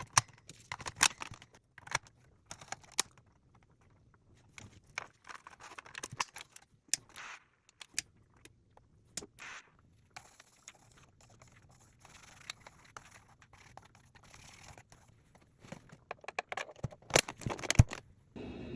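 Hands working with small hard parts: irregular clicks, taps and short scrapes, with a burst of louder clicks near the end.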